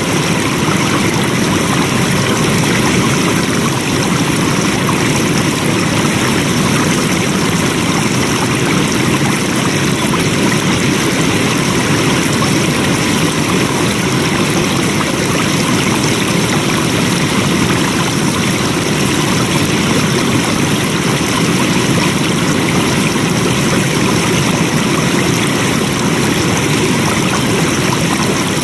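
Flowing water, a stream or small waterfall rushing steadily.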